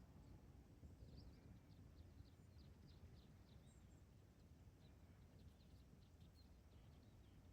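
Very quiet natural ambience: faint, short, high bird chirps repeating over a low, steady rumble.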